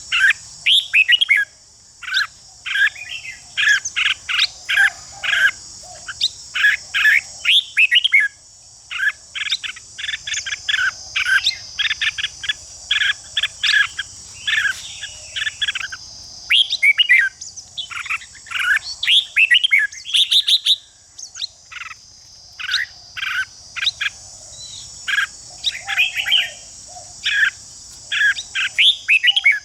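Red-whiskered bulbuls calling and singing in quick runs of short, sharp chirping notes, with brief pauses between runs. A steady high-pitched insect buzz sounds behind them.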